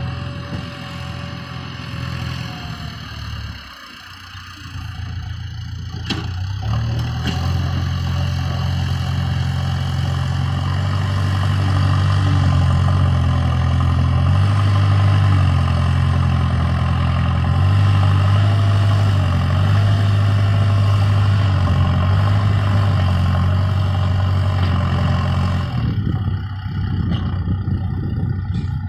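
Heavy diesel engine of earth-moving machinery running under changing load, its pitch stepping up and down. It drops briefly about four seconds in, then runs louder from about seven seconds in, with a couple of sharp clanks near six seconds.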